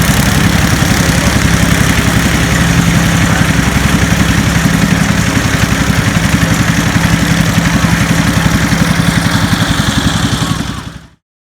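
A vehicle engine idling loudly and steadily with a fast, even pulse; it fades out near the end.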